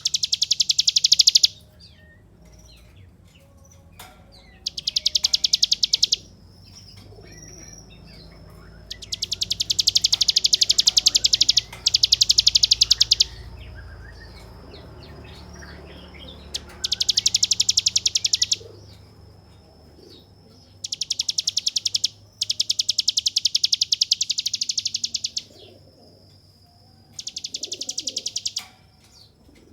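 Ciblek gunung, a mountain prinia, singing its 'ngebren' song: very fast machine-gun-like rattling trills, high-pitched, in about eight bouts of one to three seconds each. A faint thin high whistle carries on in the gaps.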